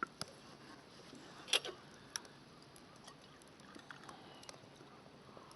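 Wood fire crackling in a fire pit: scattered sharp pops and ticks, the loudest about a second and a half in, over a faint steady hiss.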